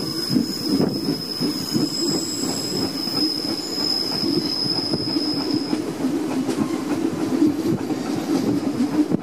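Metre-gauge Bernina Railway train running on a tight curve: a steady rumble of wheels with a thin, high steady wheel squeal that stops about six seconds in.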